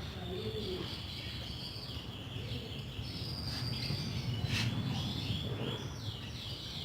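Small birds chirping and twittering in short repeated phrases, over a steady low rumble, with one sharp click about halfway through.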